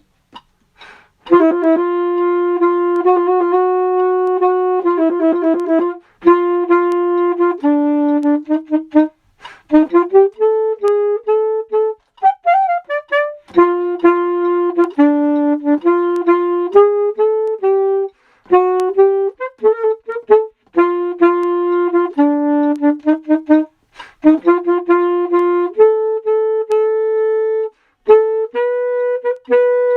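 A single woodwind instrument playing a melody unaccompanied, one note at a time, in short phrases broken by brief pauses for breath.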